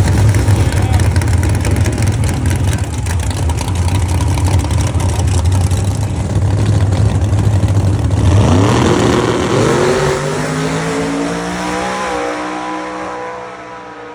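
Twin-turbo small-block Mopar V8 drag car making a pass at full power, loud and heavy. About eight seconds in, the engine note climbs in pitch in steps, then fades away.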